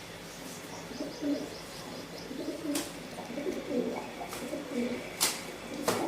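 Birds cooing in low, repeated calls starting about a second in, with a few sharp clicks or taps in between, the loudest just past five seconds.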